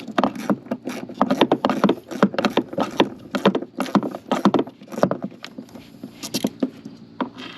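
Hand ratchet with a 10 mm socket clicking in uneven runs of sharp clicks while a small fastener is worked loose, with some knocks of the tool against metal.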